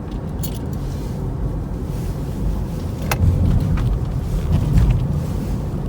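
A car running on the road, with a steady low rumble that swells slightly in the second half, and a few short clicks.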